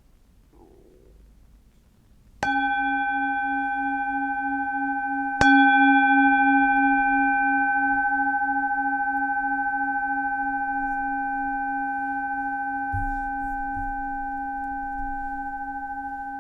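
Singing bowl struck twice, about three seconds apart, ringing on with several tones. Its lowest tone wobbles slowly, and the ringing fades gradually.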